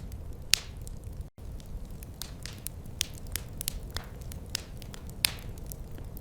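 Wood fire crackling in a fireplace: irregular sharp snaps and pops over a low steady rumble. The sound cuts out for an instant a little over a second in.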